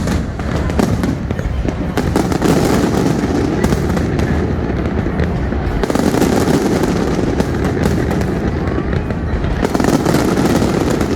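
Aerial fireworks bursting in quick succession: many overlapping bangs and crackles, with denser volleys about two seconds in, around six seconds in, and near the end.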